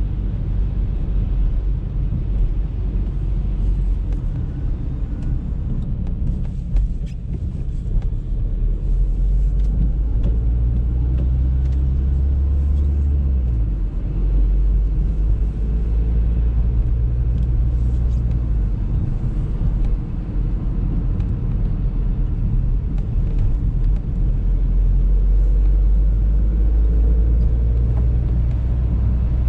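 Audi A3 driving: a steady low road and engine rumble, with the engine hum shifting in pitch several times as speed changes.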